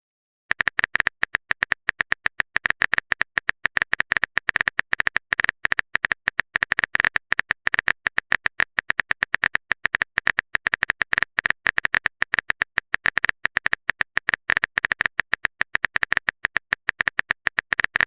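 Looped keyboard-typing sound effect: a rapid, uneven run of sharp clicks, each with a bright ring, starting about half a second in.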